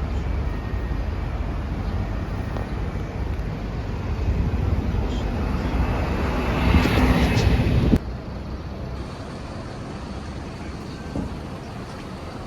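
Street traffic noise. A motor vehicle passing close builds up over a few seconds, then the sound drops off abruptly about eight seconds in, leaving quieter background traffic.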